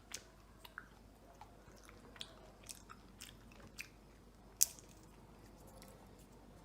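Scattered small clicks and taps, with one sharper click about four and a half seconds in.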